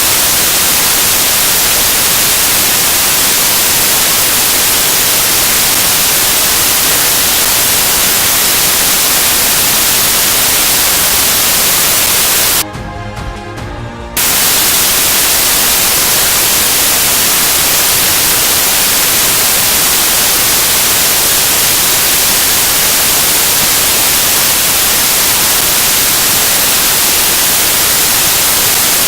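Loud, steady static hiss like white noise, starting abruptly. About halfway through it cuts out for a second and a half, leaving a quieter passage with faint tones, then comes back just as loud.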